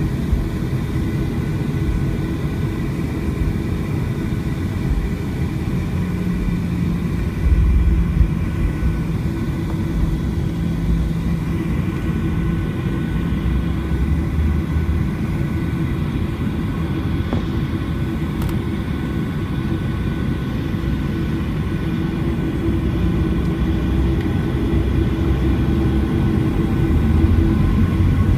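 Boeing 737-800 jet with CFM56-7B engines running, a steady low rumble under a constant hum; it grows louder over the last few seconds.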